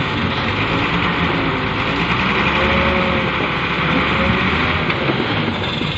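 Mitsubishi Fuso dump truck's diesel engine running hard under a full load of soil, a steady loud rumble whose pitch wavers a little.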